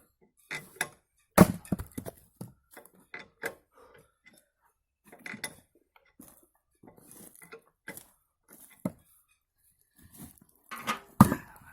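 Irregular sharp wooden knocks and clatter of firewood being split and pieces landing, with a loud strike about a second and a half in and another near the end.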